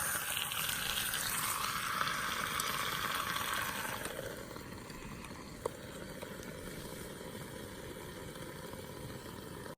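Steady hissing noise that is louder for the first four seconds, then settles lower and cuts off abruptly at the end.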